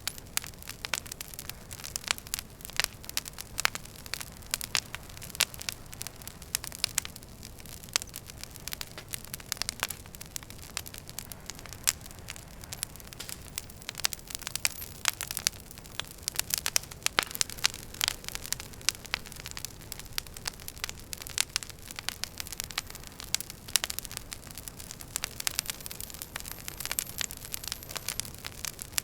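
Wood fire in a fireplace crackling: irregular sharp pops and snaps of burning logs, several a second, over a soft low rumble of the flames.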